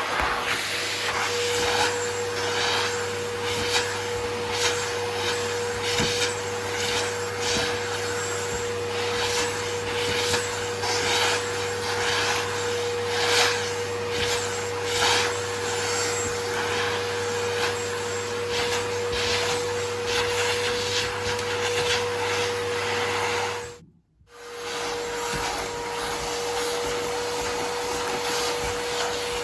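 Vacuum cleaner running: a steady whine over a rushing noise that swells and fades in short strokes as it works. It cuts out briefly near the end and then starts again.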